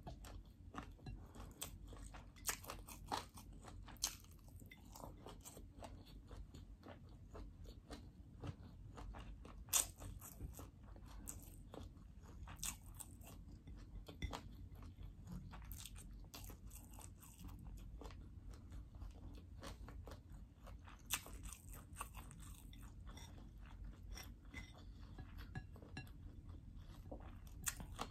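Close-miked chewing and crunching of chicken fried rice eaten by hand: quiet, irregular small mouth clicks and crunches over a faint low hum.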